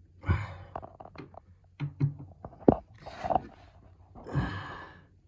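Metal tool clicking and knocking against a stop tap's gland nut as it is tightened to stop a drip, with a few breathy exhales between the clicks. The sharpest click comes a little after halfway.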